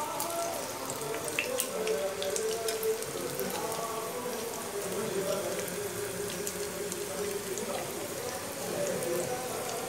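Samosas shallow-frying in hot oil in a pan: a steady crackling sizzle with many small scattered pops of spattering oil.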